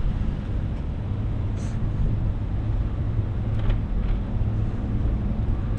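Steady low rumble of road traffic mixed with wind on the microphone of a moving bicycle, with a brief hiss about a second and a half in.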